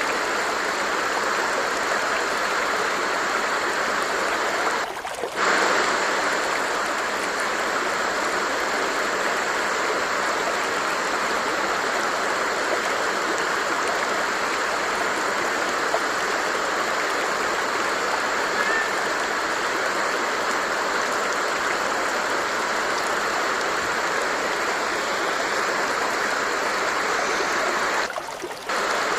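A stream flowing: a steady rush of running water that dips briefly twice, about five seconds in and near the end.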